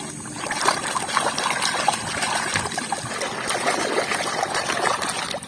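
Water trickling and splashing as a muddy plastic toy is rinsed clean, with many small irregular splashes.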